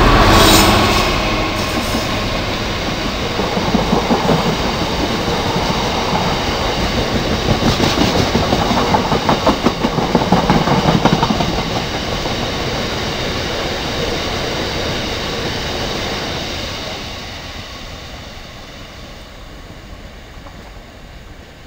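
Freightliner Class 66 diesel-electric locomotive, with its two-stroke diesel, passing close with a freight train, its engine loudest at the start. A long rake of box wagons follows, clattering rhythmically over the rail joints. The sound fades in the last few seconds as the train draws away.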